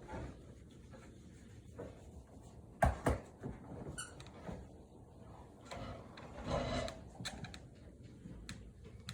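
Large Husky-Mastiff mix dog romping indoors: scuffling and rubbing on the floor, two loud knocks about three seconds in, a brief high squeak a second later and another burst of scuffling near the end.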